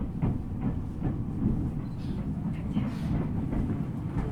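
Ueda Electric Railway 1000 series electric train running, heard from inside the car: a steady low rumble with irregular clacks of the wheels over the rail joints.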